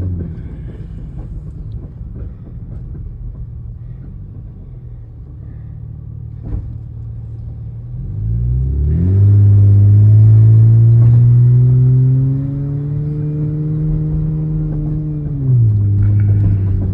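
Vehicle engine running low for several seconds, then revving up about eight seconds in, its pitch climbing steadily as it accelerates, and dropping back a second or so before the end.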